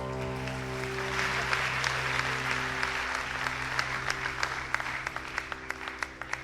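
Applause with a held musical chord ringing underneath, the clapping thinning out toward the end.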